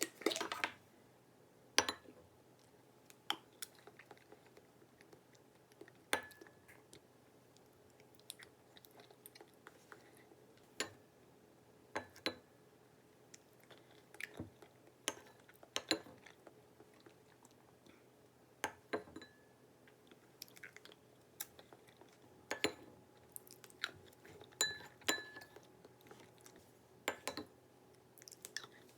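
A person eating: scattered light clicks and clinks of cutlery against dishes every second or two, with chewing between.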